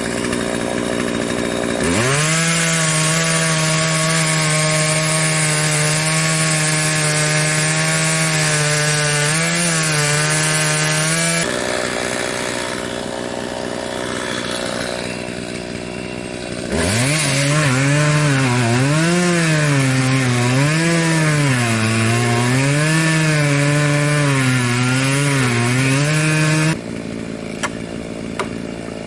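Poulan 4620 two-stroke chainsaw revving up to full throttle about two seconds in and cutting wood, holding a steady high note. It drops back to idle for about five seconds midway, then cuts again with its pitch rising and falling as the chain loads and frees in the wood, and settles to idle near the end.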